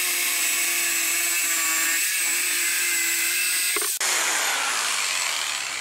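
Electric power tool running at a steady high whine while cutting a plastic barrel, then switched off with a click about four seconds in, its motor winding down in falling pitch.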